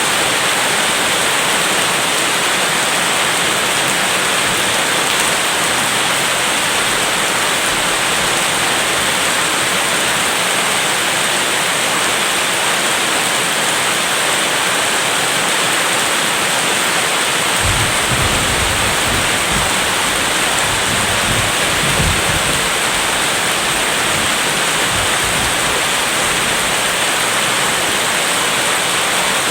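Steady rain falling hard, with a low rumble of distant thunder for a few seconds a little past halfway through.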